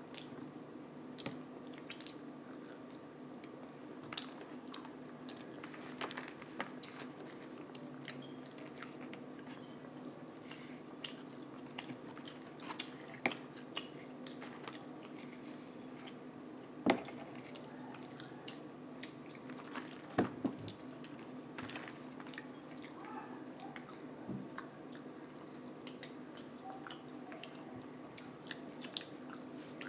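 Faint mouth sounds of people chewing fried chicken and fries, with scattered small clicks and taps over a steady low hum. A couple of sharper knocks come about halfway through and a few seconds later.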